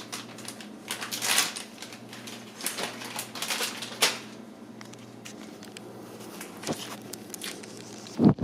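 Plastic cat-treat packaging crinkling and rustling as it is being opened, in a run of short crackly bursts over the first four seconds, then quieter handling.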